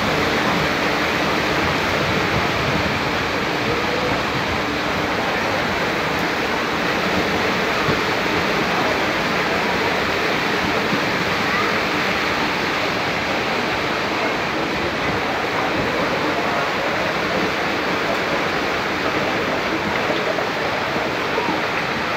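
Passenger train coaches rolling slowly through floodwater over the track, their wheels churning and splashing the water in a steady rushing noise.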